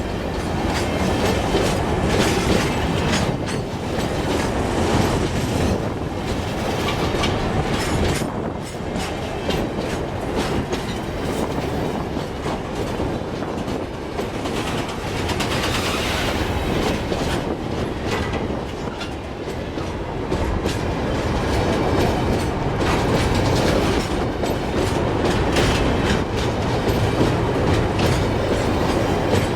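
Long freight train's wagons rolling past, wheels clattering steadily over the rail joints, with a brief higher-pitched wheel noise about halfway through.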